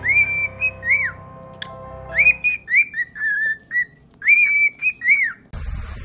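A quick run of clear whistled notes. Some are held level, others swoop up and then drop off, with the loudest cluster about four to five seconds in. Just before the end it cuts abruptly to wind rumbling on the microphone.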